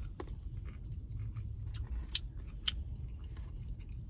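Crispy breaded fried chicken fillet being bitten into and chewed, with scattered crunchy clicks, over a steady low hum.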